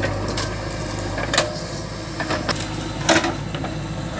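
Heavy diesel machinery engine running steadily, with a few sharp knocks and clacks, the loudest about three seconds in.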